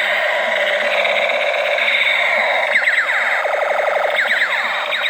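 Electronic toy sound effects through a small speaker: a steady buzzing electronic warble, then from about halfway repeated falling-pitch zaps like toy laser shots.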